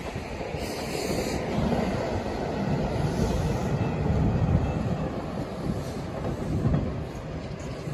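Train passing at close range, its wheels rumbling and clacking over the rails; the noise eases a little near the end.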